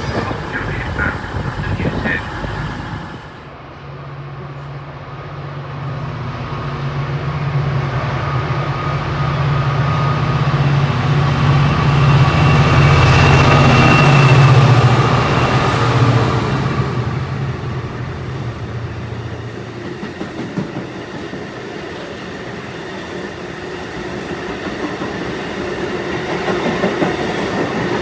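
A locomotive-hauled train running past on the rails. A steady low hum builds to its loudest about halfway through, then fades, and the train noise rises again near the end.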